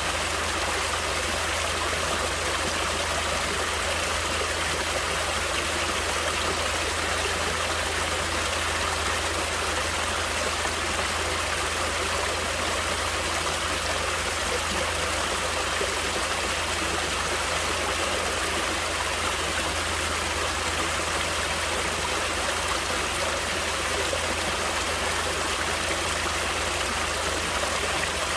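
Natural flowing water, as of a stream, rushing steadily and evenly without a break.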